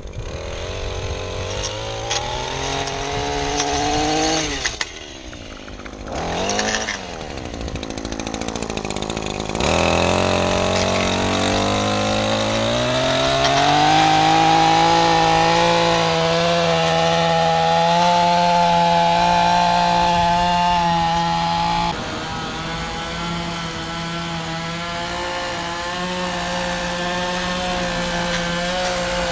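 Small petrol engine of lawn equipment revving up, dropping back to idle, blipped once, then brought up to a steady full-throttle run that holds, easing slightly about two-thirds of the way through.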